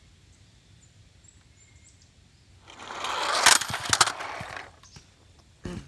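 Radio-controlled truck rushing in and crashing: a rising whir and rattle, then two sharp cracks of impact about half a second apart, dying away, followed by a short low thump near the end.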